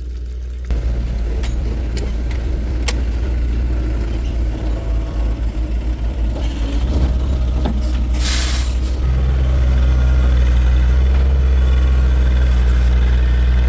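Heavy vehicle engine running steadily, with a few sharp clicks in the first three seconds and a hiss of air lasting about a second some eight seconds in; after the hiss the engine runs louder.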